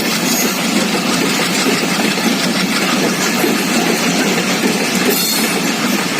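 Diesel-electric train pulling out: the WDM-3A locomotive's engine running under throttle together with the steady noise of the train moving.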